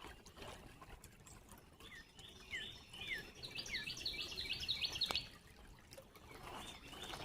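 A songbird singing repeated phrases of quick notes, some slurring downward, over the faint trickle of creek water, with a single sharp click about five seconds in.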